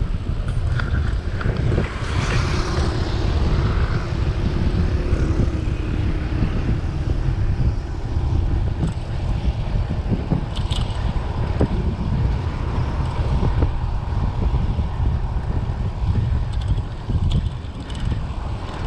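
Wind buffeting the microphone of a bicycle-mounted or rider-worn camera while riding, a steady low rumble, with faint traffic hum underneath.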